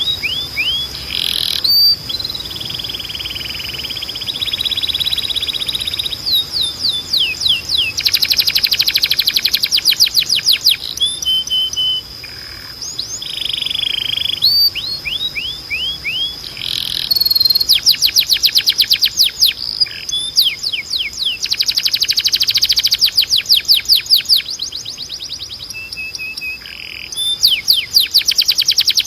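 Timbrado canary singing: phrases of fast trills made of rapidly repeated falling notes, rattling rolls and held whistled notes, with short pauses between phrases. A steady high tone runs underneath.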